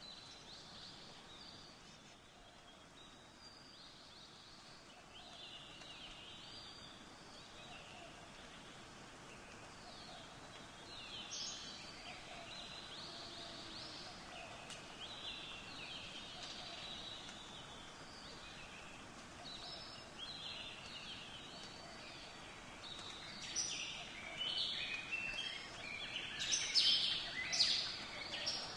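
Birds chirping and singing over a faint steady outdoor hiss, the calls growing denser and louder in the last few seconds.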